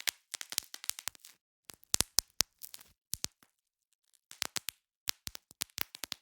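Bubble wrap being popped by hand: quick runs of sharp pops in bursts, with a pause of about a second in the middle.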